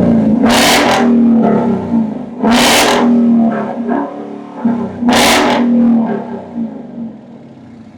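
Ford Mustang GT's 5.0 V8 running, blipped three times about two and a half seconds apart, then dropping back and fading near the end.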